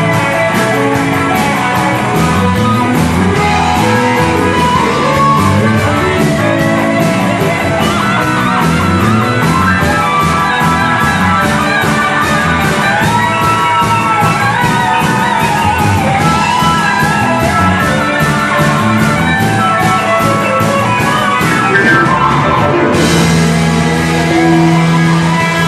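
Rock band playing, electric guitar leading over fast, steady drums. About 23 seconds in the music changes to a held low note, with shouting.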